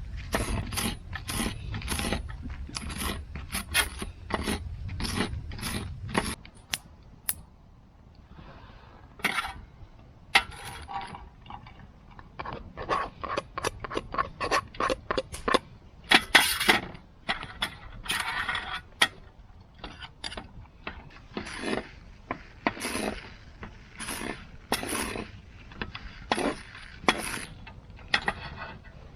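Hand tool working wood in short scraping strokes, irregularly spaced, with a brief lull a few seconds in before the strokes resume.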